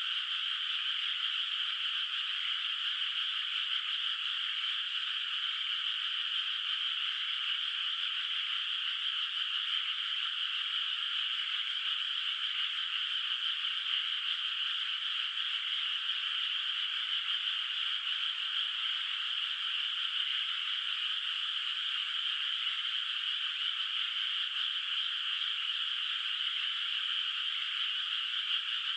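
A dense, steady chorus of many frogs calling from a flooded rice paddy, the calls blending into one unbroken high trill.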